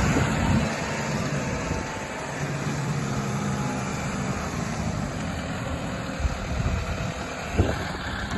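Case IH tractor engine running steadily, a low hum under a constant rush of background noise, with a couple of short knocks in the second half.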